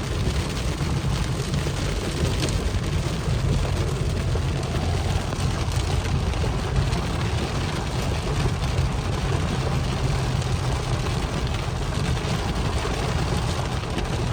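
Rainstorm: steady rain noise with gusting wind rumbling on the microphone.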